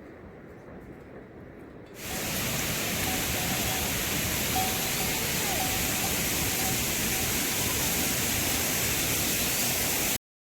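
Steady rushing water noise that comes in suddenly about two seconds in and cuts off abruptly near the end.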